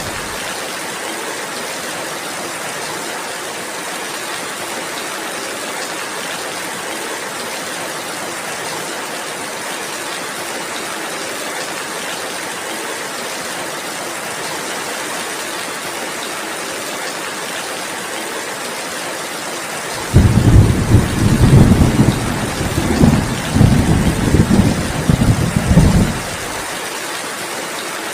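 Steady rainfall as an even hiss. About two-thirds of the way through, a deep, uneven rumble of thunder rolls in, the loudest sound here, and dies away about six seconds later.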